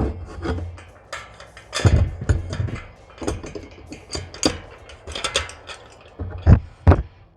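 Irregular clatter of hard objects being handled, clicks and knocks with a few heavier thumps, about two seconds in and twice near the end.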